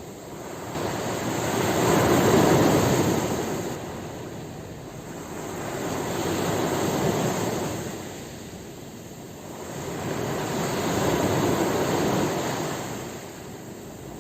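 Ocean waves breaking and washing in, three swells of surf rising and falling about every four to five seconds.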